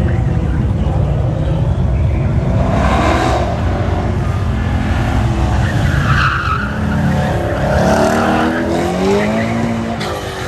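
A car driven hard through an autocross course: its engine revs up and down as it accelerates and brakes between cones, its pitch climbing several times in the second half, with tires squealing through the turns.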